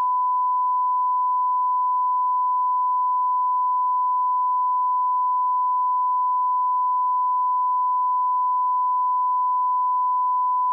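Steady 1 kHz sine-wave line-up tone at −18 dB, the reference level for audio alignment, held unbroken at one pitch and one level.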